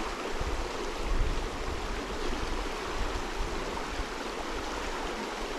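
River water rushing steadily over a riffle, a turbulent stretch of stream, with a brief low rumble about a second in.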